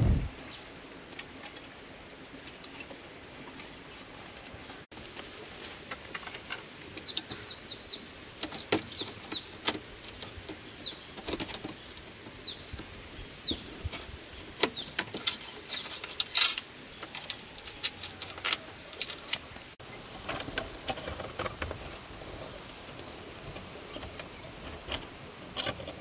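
Small birds chirping in short falling notes, some in quick runs of three or four, among scattered sharp clicks and knocks, over a steady faint high-pitched tone.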